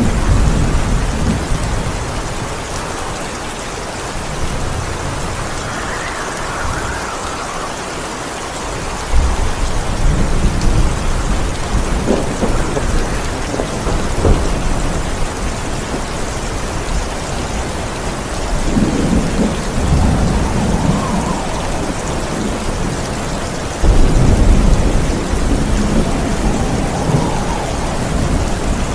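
Heavy rain falling steadily, with rolls of thunder: a low rumble cuts in suddenly about nine seconds in and again near the end, each time swelling and then fading slowly.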